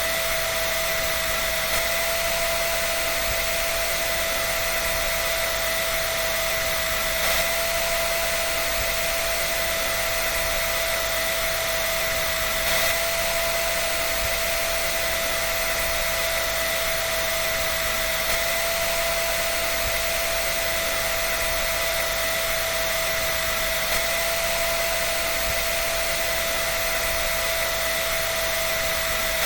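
Hair dryer running steadily: an even rush of blown air with a constant fan-motor whine and no change in speed.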